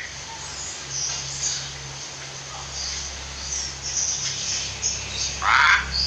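Birds calling: scattered faint high chirps, then one louder, rougher call about five and a half seconds in, over a steady low hum.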